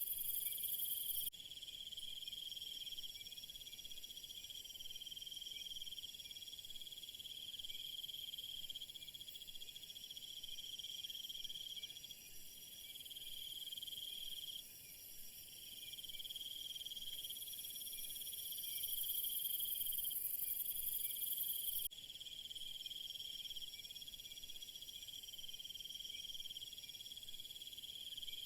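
Chorus of crickets and other insects trilling steadily. A higher, louder insect layer cuts off about a second in, builds back in past the middle and stops abruptly a few seconds later.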